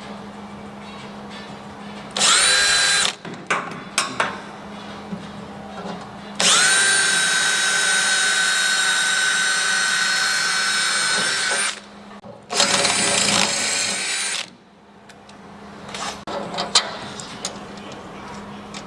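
Handheld electric drill drilling a hole, its motor whining at a steady pitch in three runs: a short one about two seconds in, a long one of about five seconds, then a shorter one. Between the runs there are a few clicks, and a faint steady low hum lies underneath.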